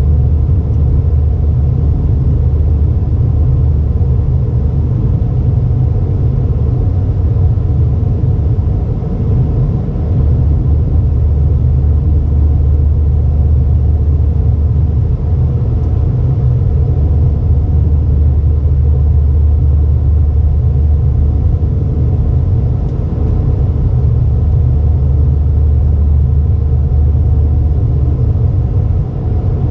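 Cabin noise inside an Airbus A320: a loud, steady, deep rumble.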